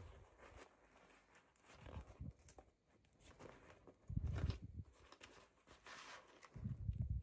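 Faint handling sounds from unboxing toy dolls: light rustling and crinkling of packaging, with two spells of low thuds, about four seconds in and again near the end.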